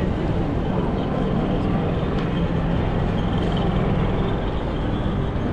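Steady rumble of vehicle noise, with a faint high steady tone over it.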